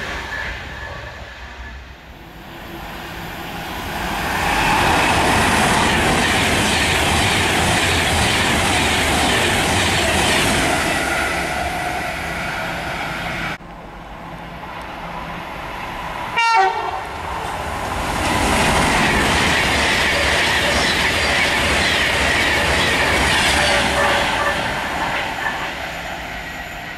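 Class 390 Pendolino electric trains passing at speed, a rush of wheel and air noise with rail-joint clatter. The rush builds over a few seconds, holds, then cuts off suddenly about halfway. A second pass follows the same way and fades near the end, with a brief, sharp, loud sound a few seconds after the cut.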